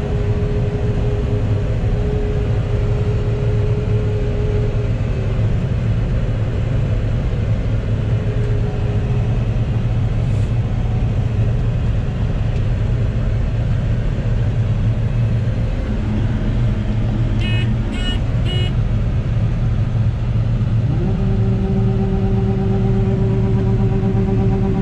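John Deere 9760 combine's diesel engine running steadily, heard from the cab as a constant low rumble. About two-thirds of the way in come three short electronic beeps, and a few seconds later a steady hum at several pitches joins the engine.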